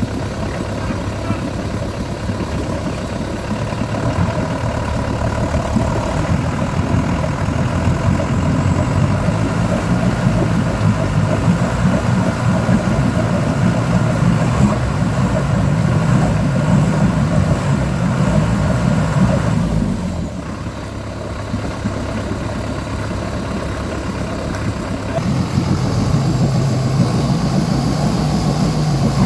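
Off-road 4x4 vehicle engine running under varying load: it grows louder through the middle, eases off suddenly about two-thirds of the way in, and picks up again a few seconds later.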